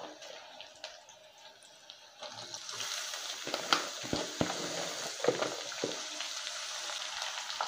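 Handfuls of freshly washed, shredded cabbage dropped by hand into hot oil in an aluminium kadai. It is fairly quiet at first, then a steady sizzle sets in about three seconds in as the wet cabbage meets the oil, with scattered soft knocks as more cabbage lands.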